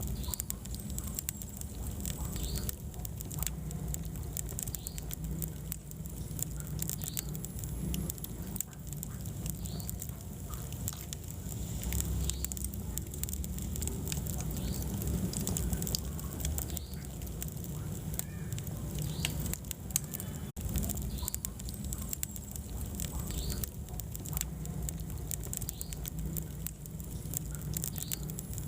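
Wood fire burning in a fireplace: steady crackling and popping over a low rumble of flames, with brief squeaky chirps about once a second.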